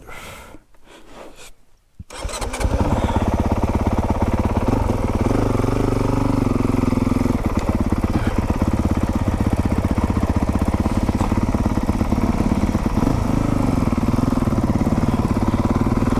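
Motocross dirt bike engine starting about two seconds in, then idling steadily with a fast, even beat.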